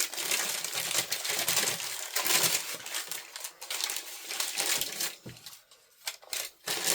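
Plastic packaging crinkling and rustling with many small clicks as a small toy package is opened by hand, thinning to a few scattered clicks near the end.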